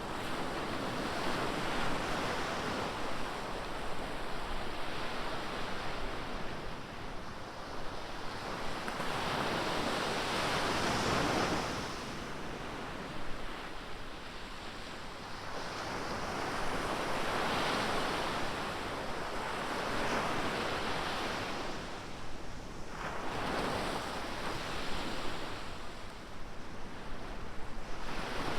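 Ocean surf: waves breaking and washing up a beach, a steady rush of noise that swells with each wave, about every five to eight seconds.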